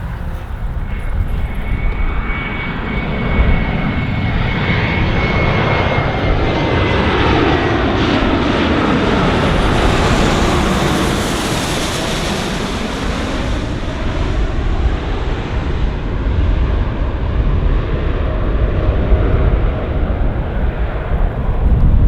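Gulfstream G550 business jet on landing approach, its twin Rolls-Royce BR710 turbofans passing by: the noise swells to a peak about halfway through and then fades. A high turbine whine falls in pitch as the jet goes past.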